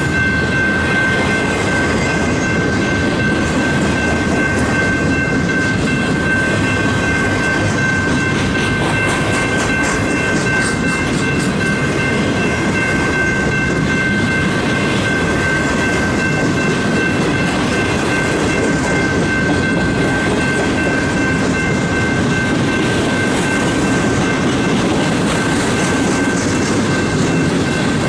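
Freight train of loaded flatcars rolling steadily past at a grade crossing, a continuous rumble with clatter of wheels over the rail joints. A steady high tone sits over the noise.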